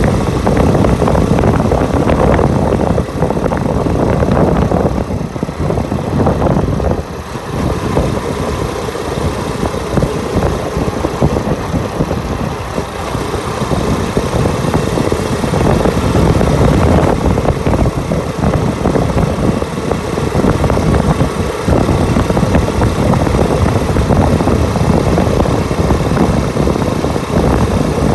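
Motorbike engine running steadily during a ride, with wind rushing and buffeting over the microphone.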